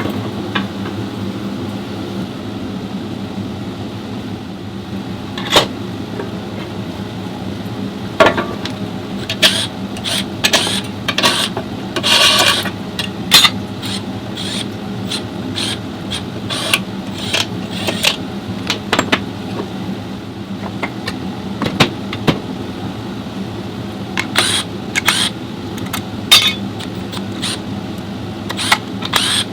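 A steady mechanical hum with frequent short, sharp clicks and knocks over it, most of them in two busy stretches, from about eight to thirteen seconds in and again near the end.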